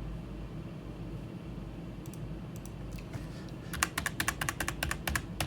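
Typing on a computer keyboard: a few scattered keystrokes, then a quick run of about a dozen keys near the end, over a steady low hum.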